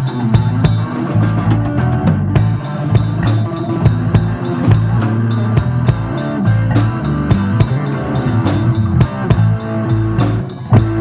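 A live rock band playing an instrumental passage: electric guitar and bass over a drum kit keeping a steady beat.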